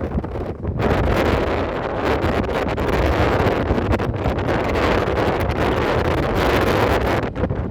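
Wind buffeting the microphone: a loud, steady rushing with a deep rumble.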